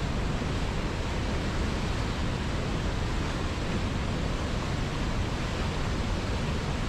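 River water flowing: a steady, even rushing noise that doesn't change.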